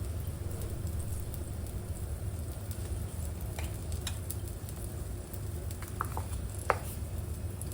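Pork and onion skewers sizzling and crackling on an electric shichirin grill, with a few sharp pops, the loudest near the end, over the steady low hum of a range-hood fan.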